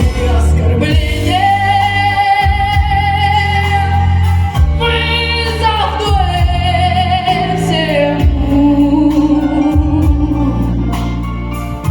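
A female singer holds long, wavering sung notes over an instrumental backing track. A high held note starts about a second in, a higher one follows about five seconds in, and the melody then steps down.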